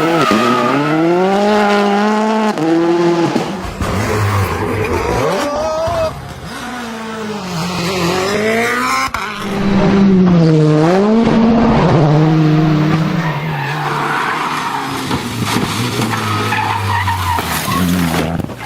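Rally car engines revving hard, the pitch climbing and dropping again and again through gear changes, with tyre noise. The sound changes abruptly a couple of times, about six and nine seconds in.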